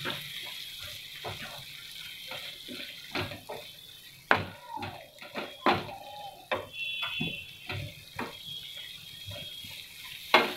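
Tomato and spiced masala sizzling in hot oil in a frying pan while being stirred with a wooden spatula, with irregular knocks and scrapes of the spatula against the pan.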